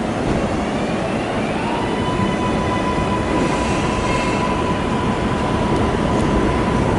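Train running past with a loud, steady rush of wheels on rail, and a steady high-pitched whine or squeal that sets in about a second and a half in and holds.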